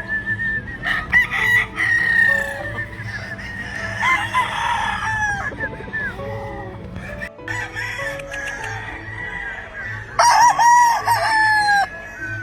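Gamefowl roosters crowing several times, the crows overlapping, with the loudest crow about ten seconds in; hens clucking in between.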